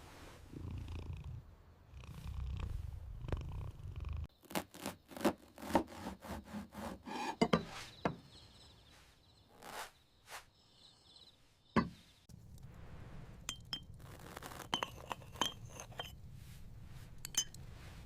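A cat purring, a low pulsing rumble. About four seconds in it gives way to a run of clinks and knocks of glass jars and utensils being handled, and the purring comes back near the two-thirds mark with a few light clinks.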